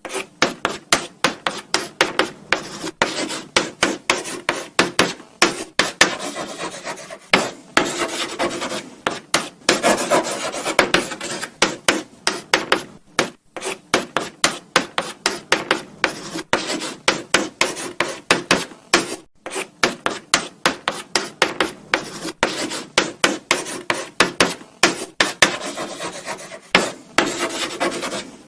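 Chalk writing on a blackboard: quick, irregular scratching strokes, several a second, with brief pauses between words.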